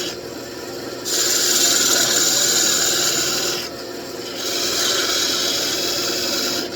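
Turning tool cutting a spinning wood workpiece on a wood lathe: two long scraping cuts, the first starting about a second in, with a short pause between them while the lathe keeps running steadily underneath.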